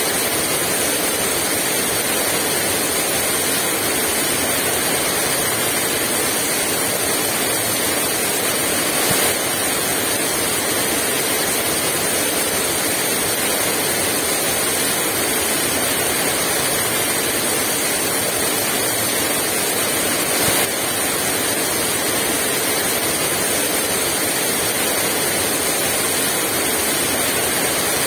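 Heavy rain pouring steadily in an even hiss, with two brief louder taps, about nine and twenty seconds in.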